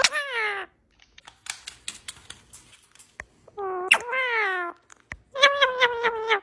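Grey-blue Indian ringneck parrot giving three drawn-out, meow-like calls that rise and fall in pitch. The last call pulses rapidly, and light clicks and taps come between the calls.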